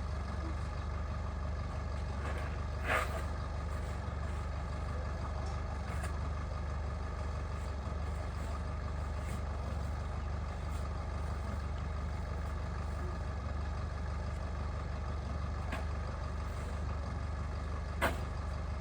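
An engine running steadily at idle, with a couple of short clicks, one about three seconds in and one near the end.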